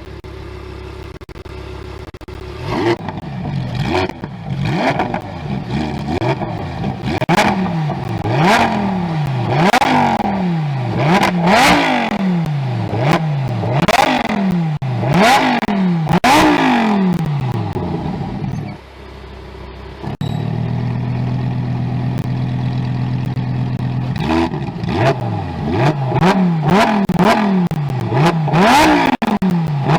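Lamborghini Huracán Tecnica's naturally aspirated 5.2-litre V10 being revved in quick repeated blips, each rising sharply and falling back, about one every two seconds. After the middle the engine settles into a steady idle for a few seconds, then the blips resume near the end.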